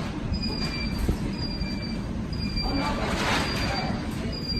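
An electronic beep repeating about once a second, each a short high tone, over a steady low rumble, with a brief hiss a little past the middle.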